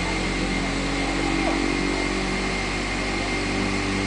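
Steady drone inside a Boeing 777-300ER cabin during engine start on its GE90-115B engines: a low hum with a thin, constant high whine held over it.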